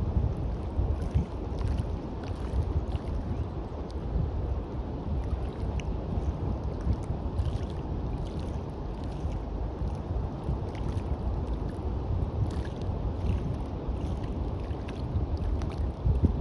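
Wind rumbling on the microphone over the steady wash of waves on a beach, swelling and easing in level.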